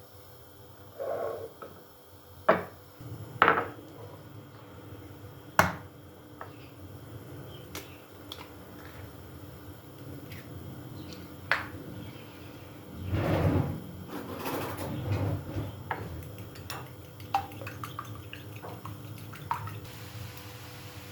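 Kitchen work with dishes and utensils: several sharp clinks and knocks of crockery and cookware, then a longer clattering, scraping stretch a little past halfway, and lighter taps after it.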